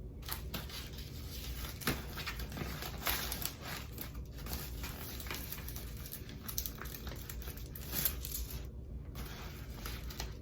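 Packaging being handled: irregular crinkling, rustling and tearing with small clicks and knocks, over a steady low hum.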